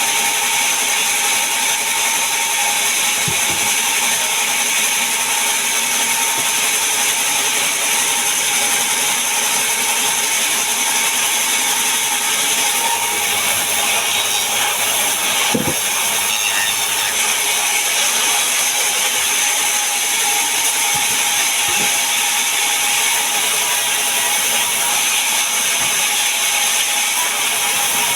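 Sawmill saw running steadily, cutting a large mahogany log: a loud, unbroken, high-pitched machine noise with a steady whine, and a few faint knocks.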